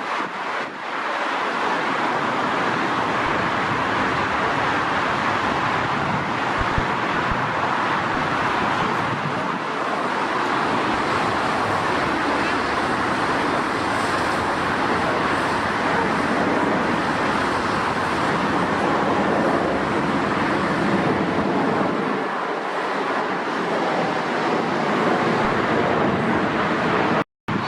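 Jet airliner engine noise: a steady, loud rush that barely rises or falls.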